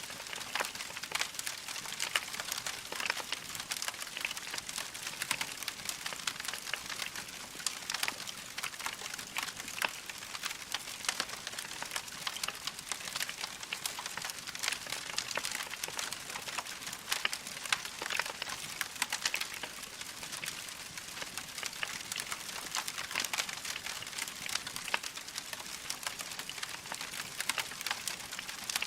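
Wood fire burning in a fireplace: logs crackling steadily, with dense irregular pops and snaps over a soft hiss.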